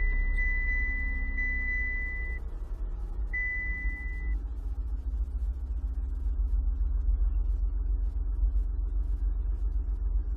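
Car engine idling with a steady low rumble. A high electronic warning beep sounds in long tones with short breaks over the first few seconds, then stops.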